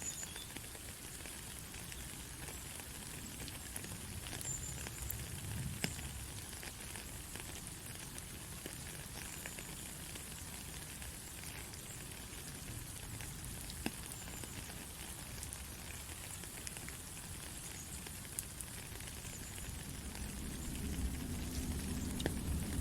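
Steady rain falling and pattering, with scattered sharper ticks of single drops. A low rumble swells near the end.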